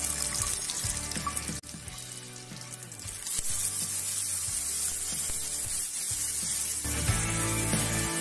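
Chopped tomatoes, red chilies, shallots and garlic sizzling in hot oil in a frying pan as they sauté. The hiss comes up strongly about three seconds in and holds steady, over light background music.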